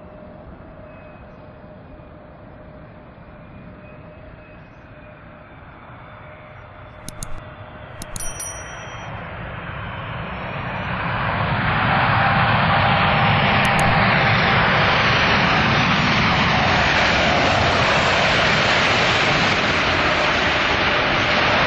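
Jet airliner engines, faint at first, swelling to a loud steady rush from about ten seconds in as the aircraft passes close. A few short clicks and high chirps come about seven to eight seconds in.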